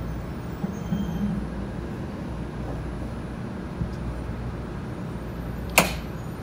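Low, steady rumble inside a Tokaido Shinkansen car as the train slows to a stop alongside a station platform, with a single sharp click just before the end.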